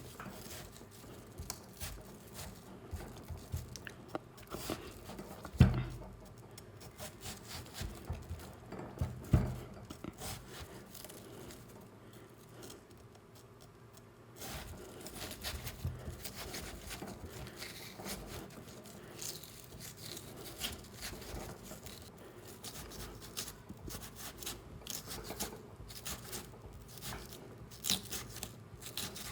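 Close-miked food and mouth sounds: fine crackly clicks, wet smacks and rubbing, with two louder low thumps about six and nine seconds in and a short quieter lull about halfway through.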